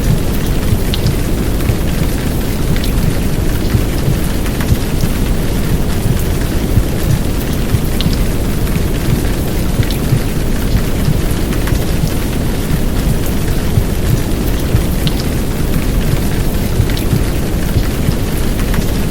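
Steady heavy downpour mixed with a deep, continuous womb-sound rumble, with scattered sharp drop ticks on top.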